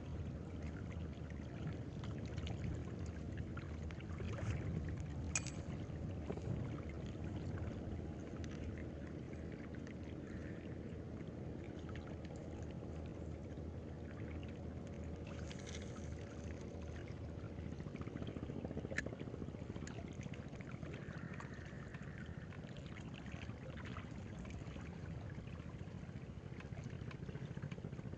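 Steady low rush of water at the shoreline, with a few faint clicks scattered through it.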